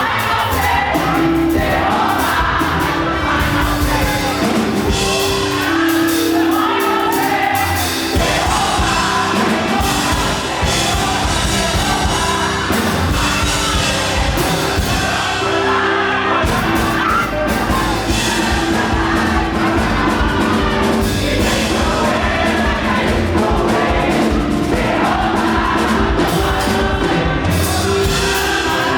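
Live up-tempo gospel praise music: a group singing over a band with a driving beat, loud and without a break.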